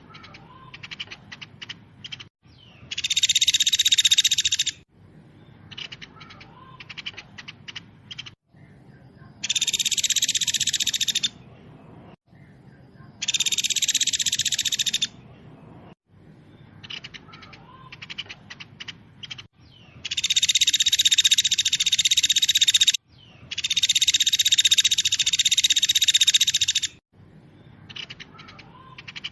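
Songbird singing a fast, tightly packed trilling song in repeated bursts of about two to three seconds, with quieter gaps of faint chirps between them. It is a masteran recording of the kind played to train caged songbirds.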